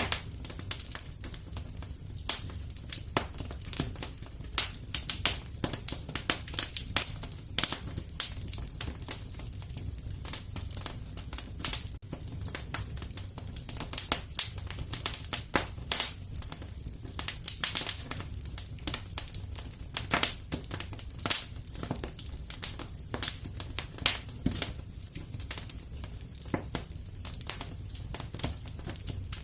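Wood fire crackling in a fireplace: irregular snaps and pops, several a second, over a steady low rumble.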